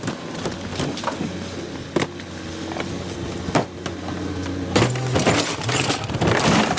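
Rear loader garbage truck running with a steady hum, a couple of sharp knocks, then a louder stretch of rattling and clanking from about five seconds in.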